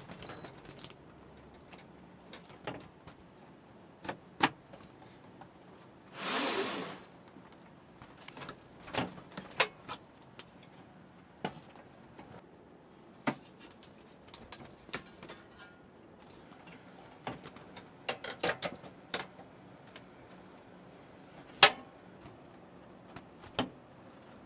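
Scattered clicks and knocks of gear and fittings being handled, with one brief rustling hiss about six seconds in and the sharpest knock a few seconds before the end.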